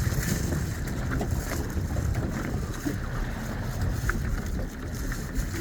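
Steady low rumbling wind noise on the microphone aboard a boat at sea, with a few faint clicks.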